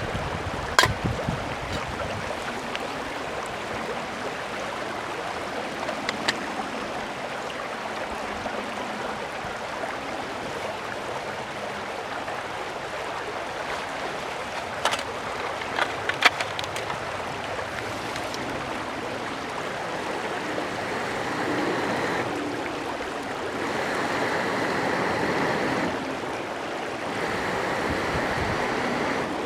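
Mountain stream flowing steadily, with a few sharp clicks: one about a second in and a pair around halfway. The water noise grows louder in the last third.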